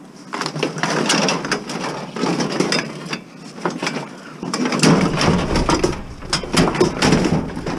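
Scrap metal and junk clattering and scraping as pieces are shoved and packed into a tight load, with many sharp knocks and bangs.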